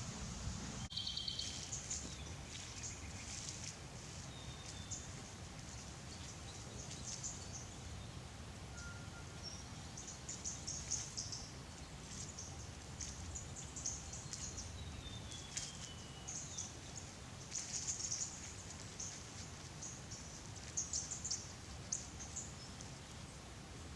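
Bush ambience: assorted birds chirping and calling in short, irregular bursts, with a few thin whistled notes, one of them sliding downward, over a faint steady background hiss.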